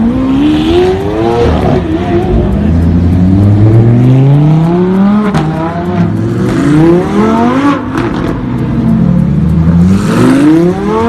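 Supercar engine accelerating hard. Its pitch climbs and falls back again and again as it revs up and shifts through the gears.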